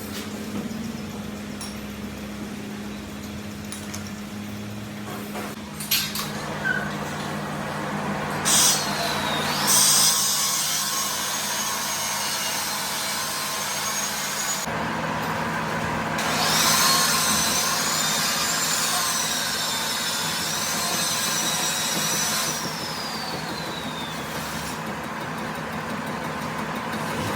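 Power tool working metal: a steady motor hum, with a few sharp knocks about six seconds in, then a long stretch of harsh cutting noise whose high whine wavers and falls under load, easing off about three-quarters of the way through.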